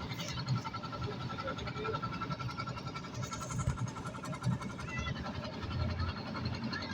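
Steady drone of a boat's engine, with an uneven low rumble underneath.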